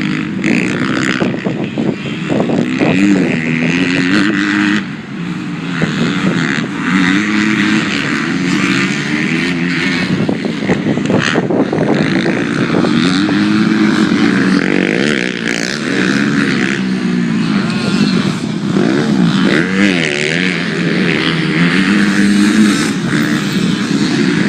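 Several motocross dirt bikes running on the track, their engines revving up and down over and over, the pitch rising and falling as they accelerate and back off, with more than one engine heard at once.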